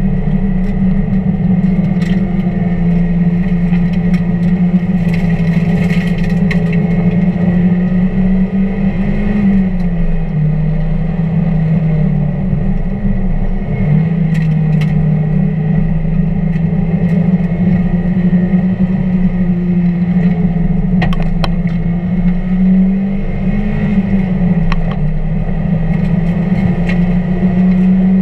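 1999 Mazda Miata's 1.8-litre four-cylinder engine running at sustained high revs while lapping, its pitch mostly steady, falling twice around ten and thirteen seconds in and rising briefly near twenty-three seconds. Faint clicks and rattles come and go.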